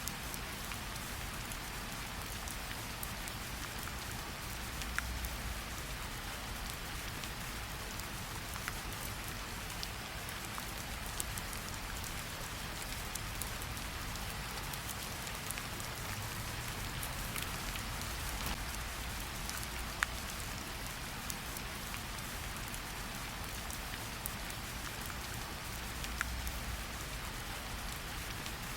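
Steady rain falling, a dense even hiss with scattered sharper drop ticks and a low rumble underneath that swells now and then.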